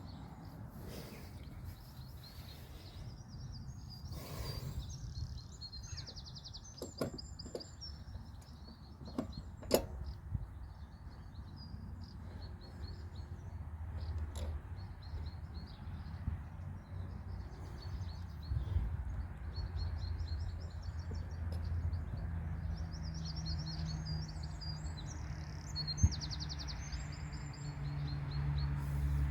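Small birds singing in repeated trilling phrases, with a few sharp clicks and knocks of hand tools on the lawnmower, the loudest about ten seconds in and near the end. A low steady hum strengthens in the last third.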